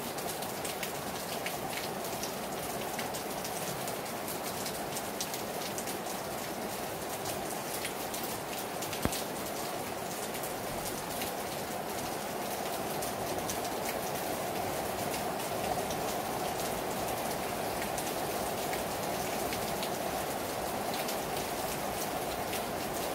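Heavy rain falling hard on a terrace: a steady, even hiss made of countless individual drop impacts, with one sharper single tap about nine seconds in.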